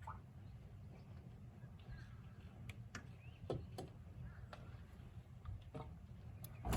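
Faint steady low rumble with scattered light clicks and taps, and one louder knock at the very end.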